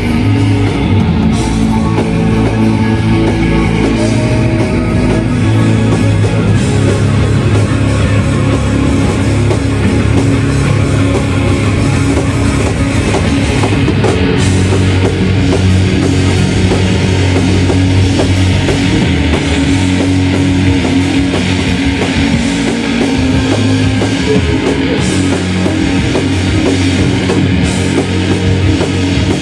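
Shoegaze band playing live: a dense wall of loud distorted electric guitars over bass and a steady drum kit, with no break.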